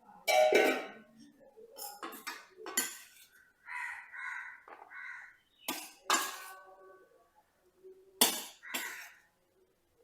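Several sharp clinks and knocks of dishes or utensils being handled, with three short harsh caws around the middle.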